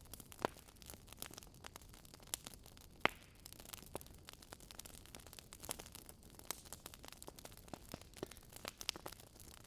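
Wood fire in a fire pit crackling: irregular sharp pops and snaps over a faint steady hiss, the loudest pops about half a second and three seconds in.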